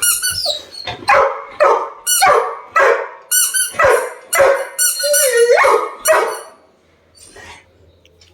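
Labrador retriever barking repeatedly, about two barks a second, as a demand for a toy that is being held back. The barking stops about six seconds in, with one faint bark after.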